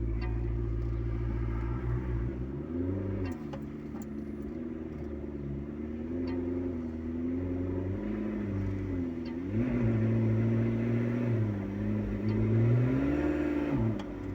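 McLaren sports car engine idling and being revved in short blips, about three times, the pitch rising and falling back each time.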